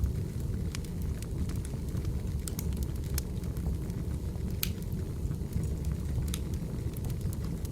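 Wood fire burning with irregular sharp crackles and pops over a steady low rumble of the flames; one pop about halfway through stands out as the loudest.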